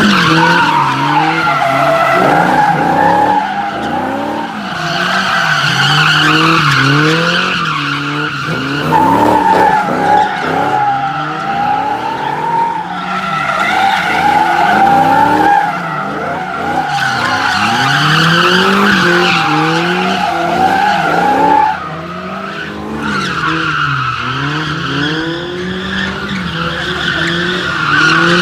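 A car doing doughnuts, its engine held high in the revs and swinging up and down over and over, with the tyres squealing without a break. The squeal and engine ease off briefly about three-quarters of the way through, then pick up again.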